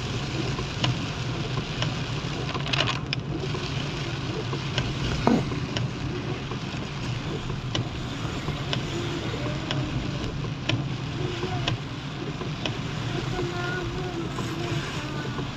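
Heavy monsoon rain with the steady low rumble of a vehicle on the road and scattered sharp ticks of drops striking.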